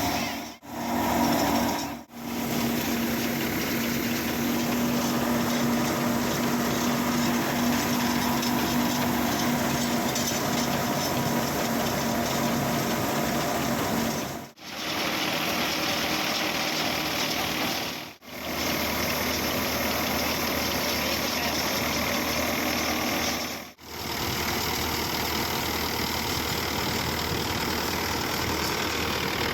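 Tractor engine running a thresher: a loud, steady mechanical din. It drops out briefly five times.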